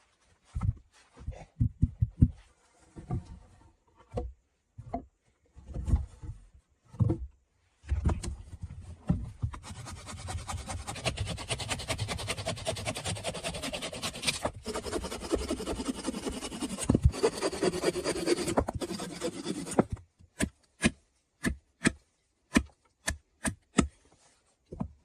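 Saw cutting through a log: several seconds of wood being handled and knocked, then about twelve seconds of continuous sawing that stops abruptly, followed by a quick run of sharp knocks about two a second.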